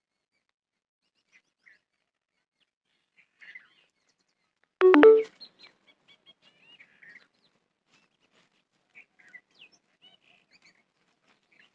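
Small birds chirping on and off, with one short, loud call about five seconds in.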